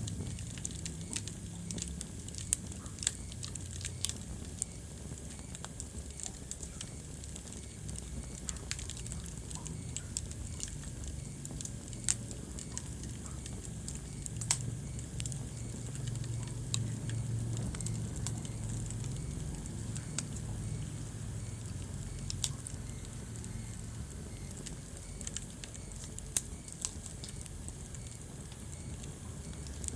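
Wood fire crackling in a fireplace: irregular sharp pops and snaps, a dozen or so standing out, over a steady low rumble of burning.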